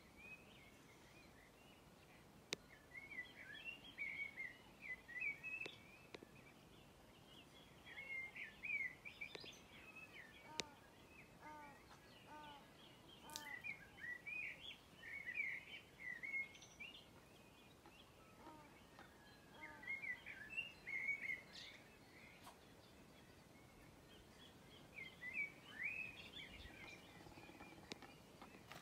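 Birds chirping in short bursts of quick, high calls, repeated every few seconds over a faint steady hiss.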